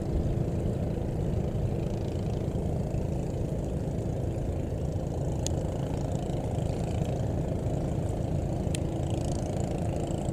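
Boat engine running steadily with an even drone, and two brief sharp ticks about five and a half and nine seconds in.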